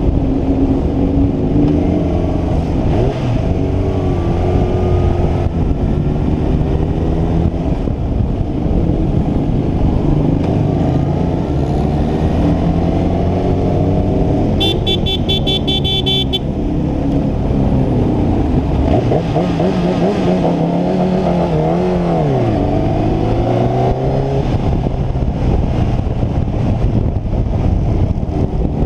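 Kawasaki Ninja sport bike's inline-four engine heard from the rider's seat while riding in traffic, its pitch rising and falling with the throttle and gear changes, dropping low and climbing again about two-thirds of the way through. A rapid high-pitched beeping sounds for about a second and a half just past the middle.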